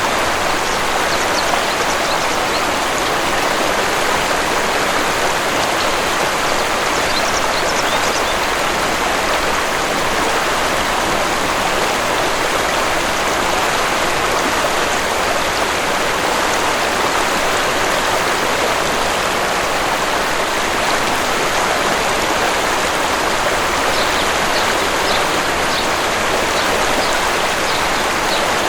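Waterfall's water rushing steadily, with faint high bird chirps coming through a few times.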